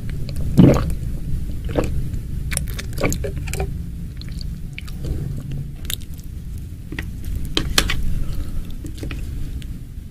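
Close-miked chewing and biting of food, with scattered wet clicks and smacks of the mouth and a louder bite about half a second in, over a steady low hum.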